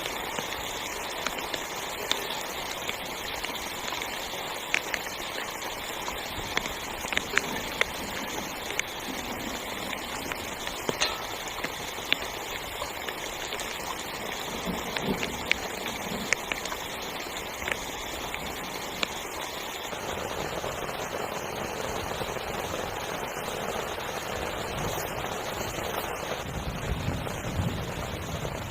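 Heavy rain falling on a tent's fabric: a steady hiss with scattered sharp drop hits. About twenty seconds in, the rain turns denser and lower, with fewer separate taps.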